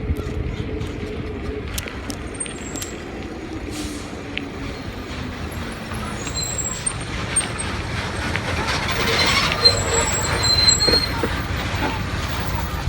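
A large road vehicle running past, its engine tone falling in pitch, over a steady low rumble of road and wind noise. About eight seconds in there are high, thin squeals like brakes, and the sound grows louder for a few seconds.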